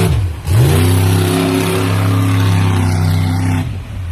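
Monster truck's engine revving: it dips, then climbs quickly about half a second in, holds at high revs for about three seconds, and drops off near the end.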